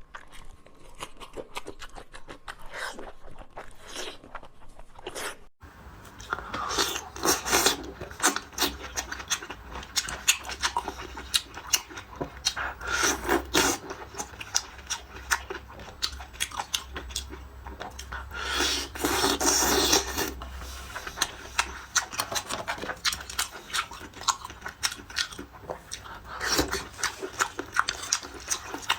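Close-up eating sounds: a person biting and chewing spicy meat, with many short crunchy clicks.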